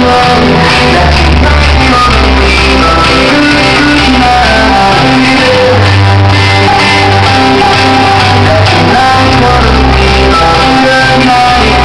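Loud music with singing and heavy bass notes, played through a Toyota Tundra's custom car audio system of four subwoofers and ten speakers.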